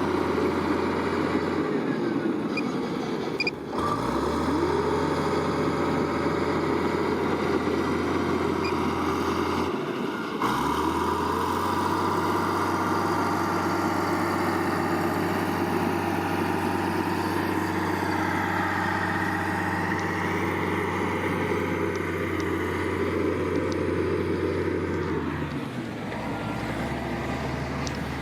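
Diesel engine of a heavy earthmoving machine running steadily under work. Its engine note shifts about four seconds in and again about ten seconds in, then drops near the end.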